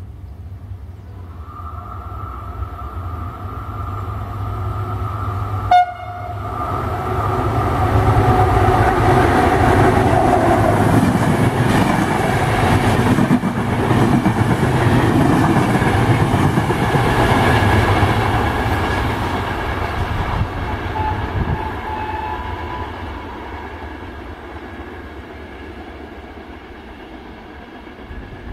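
A passenger train of coaches passing at speed. Its horn sounds a steady two-tone note as it approaches and stops with a sharp click about six seconds in. The wheels and coaches then rush past loudly for over ten seconds and fade as the train draws away.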